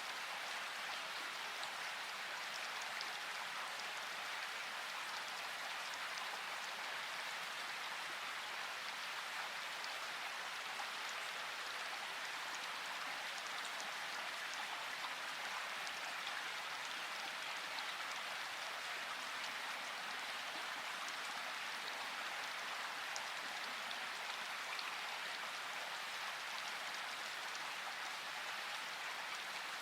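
Steady rain falling: an even hiss with scattered ticks of single drops and no thunder.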